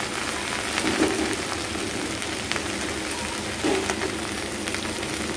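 Chopped okra sizzling as it fries in mustard oil in an open pan, a steady crackling hiss with a couple of brief knocks.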